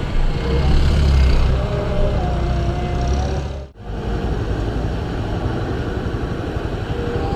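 Motor-vehicle engine noise close by on the road: a deep engine rumble for the first few seconds, then steadier traffic noise, with a brief drop-out just before the four-second mark.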